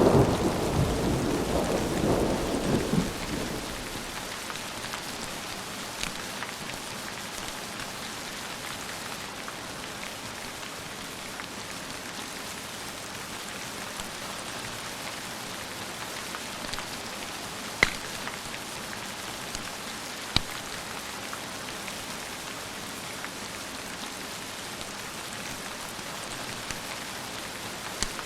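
Thunder rumbling and dying away over the first few seconds, then steady rain falling, with two sharp pops about two-thirds of the way through.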